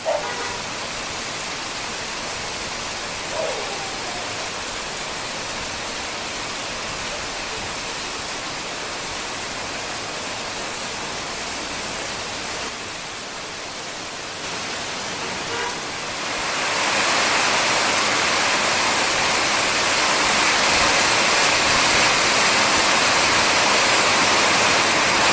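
A steady rushing noise, even and without rhythm, which grows louder about sixteen seconds in and stays loud.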